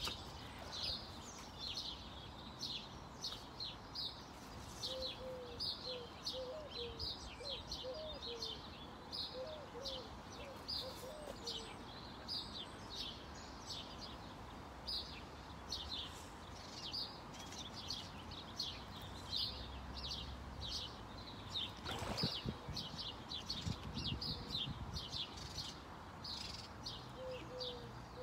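Small birds chirping and singing steadily, many short high notes close together. A lower, wavering call comes in between about five and eleven seconds in, and there is a single knock about twenty-two seconds in.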